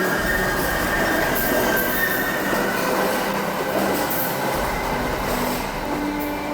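Train running on rails with its wheels squealing, a high screech that slowly falls in pitch over a dense rumble and rattle of the running train.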